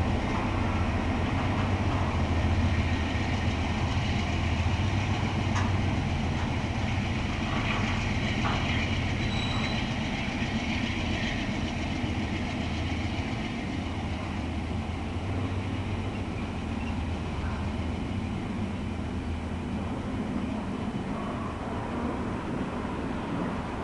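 Norfolk Southern intermodal freight train rolling by: a steady low rumble of the train in motion that slowly fades, with a few light clicks and a brief high squeak from the wheels about ten seconds in.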